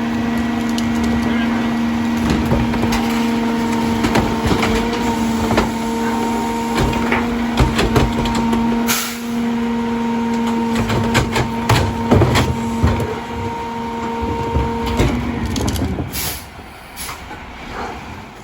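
Rear-loader garbage truck with its hydraulics running: a steady whine over the diesel engine while carts and trash clatter and bang into the Heil DuraPack hopper. The whine cuts off about 15 seconds in.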